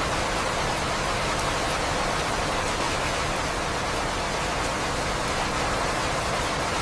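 Steady rain: an even, unbroken hiss, with a few faint high ticks of single drops.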